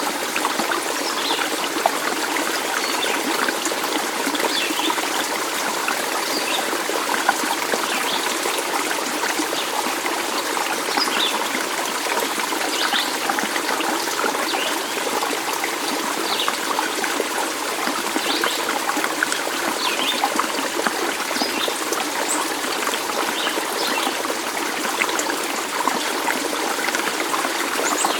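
A small stream trickling steadily, with scattered brief high-pitched plinks over the running water.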